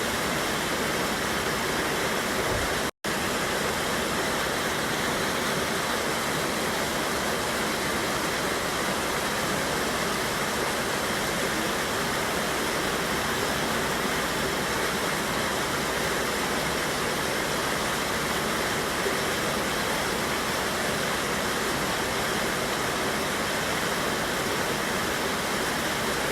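A river waterfall rushing in a steady, unbroken roar of water. The sound drops out for an instant about three seconds in.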